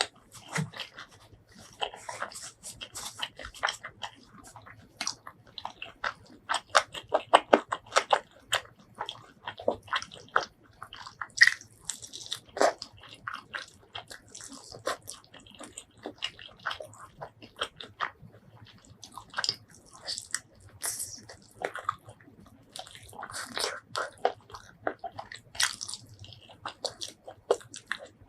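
Close-miked eating: bites and chewing with crisp, crackling crunches of fried chicken batter, densest about six to nine seconds in.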